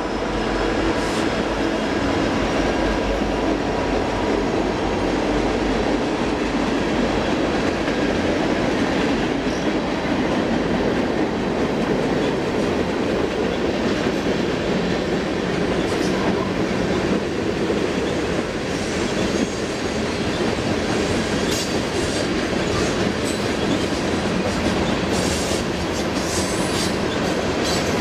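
Freight train cars rolling past: a steady rumble of steel wheels on rail with clicking over the rail joints, and short high wheel squeals and clicks now and then in the second half.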